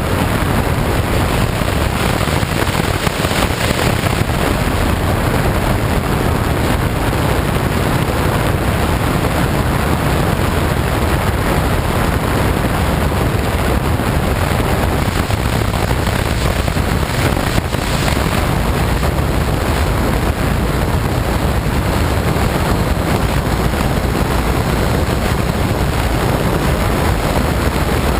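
Challenger ultralight aircraft in flight, its engine and propeller running steadily under heavy wind noise on the microphone.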